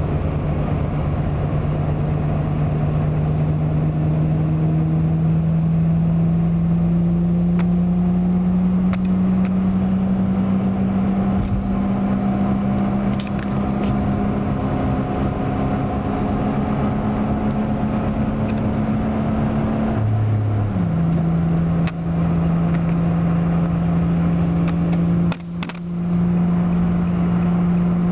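Inside the cabin of a 2004 Nissan Maxima, its 3.5-litre V6 runs at highway speed through headers, an N1 cat-back and Magnaflow resonator and mufflers, the resonator fitted to cure exhaust drone. A steady engine hum climbs slowly in pitch as the car gains speed. About twenty seconds in it breaks off briefly and resumes at a lower pitch, as after an upshift.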